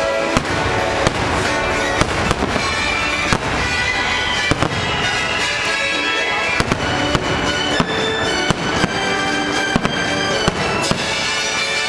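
Aerial fireworks bursting, with a dozen or so sharp bangs and cracks at irregular intervals, roughly one a second. Loud music plays steadily underneath.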